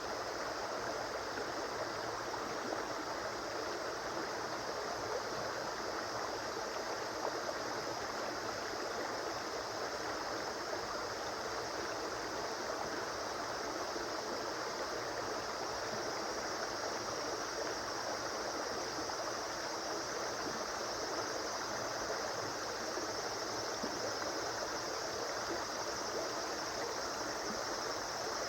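A river or stream flowing and babbling over rocks, a steady, even rush of water.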